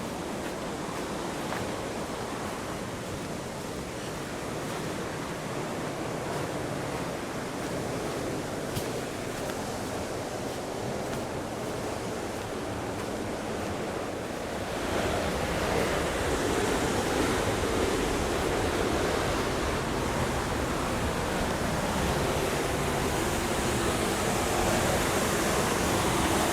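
Steady rushing of a waterfall, growing louder and fuller about halfway through.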